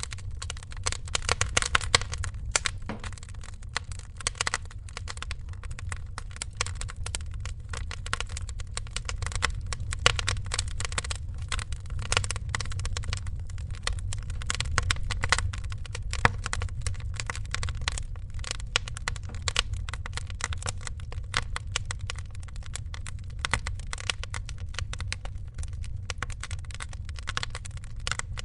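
Wood fire crackling densely with irregular sharp pops, over a steady low rumble of the flames.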